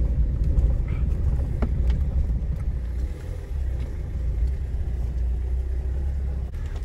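Kia Rio's 1.5 turbodiesel engine and the car's low rumble, heard from inside the cabin as it pulls away at low speed: a steady low drone.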